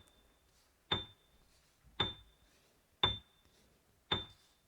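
Evenly spaced clicks, about one a second and four in all, each with a short high ring after it, like a ticking timer counting off the learner's turn to repeat the word.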